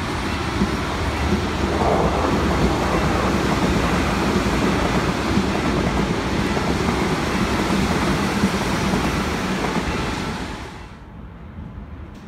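Electric commuter train running past close by: a loud, steady rush of wheels on rail, which cuts off sharply about eleven seconds in, leaving a much quieter background hum.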